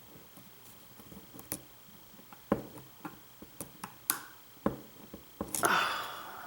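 Lock pick and tension wrench working the pins of a lock held in a false set: scattered light metallic clicks and ticks, with a louder rustling sound near the end.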